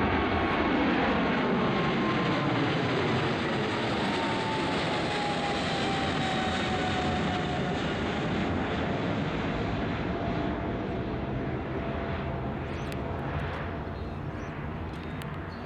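Emirates Boeing 777-300ER's GE90 jet engines running as the airliner passes and moves away. The engine whine falls steadily in pitch and the noise fades slowly.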